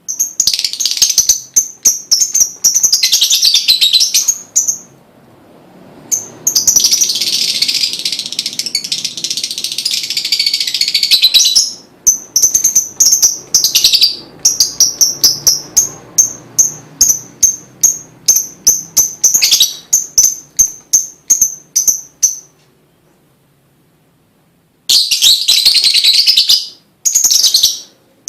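Lovebird singing: strings of sharp, high chirps at about three a second, broken by long, harsh, continuous trills lasting a few seconds each, with two short pauses between bouts.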